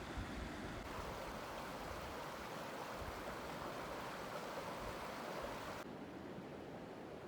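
Steady rush of running water, as of a stream or river. About a second in it switches abruptly to a brighter, louder rush, then cuts back to a duller, quieter one near the end.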